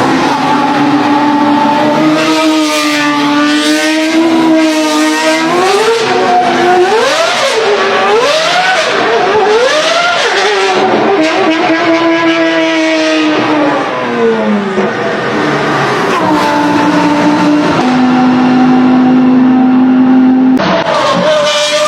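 V12 supercar engine revving through its exhaust. The pitch climbs, then is blipped up and down several times in quick succession in the middle, drops back and holds a steady note, with an abrupt change near the end.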